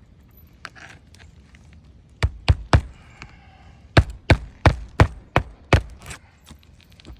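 Hammer striking roofing nails to fasten a replacement three-tab asphalt shingle: nine sharp blows, a quick group of three about two seconds in, then six more at about three a second.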